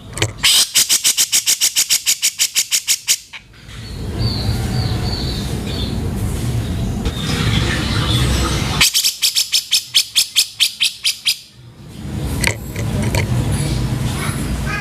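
Grey-cheeked bulbul (cucak jenggot) calling harshly. It gives two runs of rapid repeated notes, about eight a second and each about three seconds long, with rougher calls between them.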